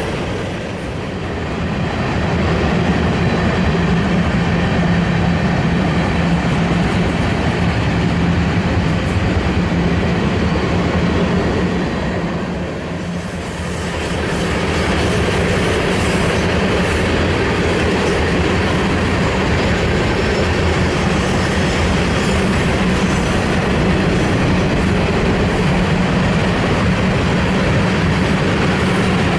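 Manifest freight train's cars rolling past, a steady loud rumble of wheels on rail with a low steady hum and some clickety-clack. The sound dips briefly about a second in and again around thirteen seconds.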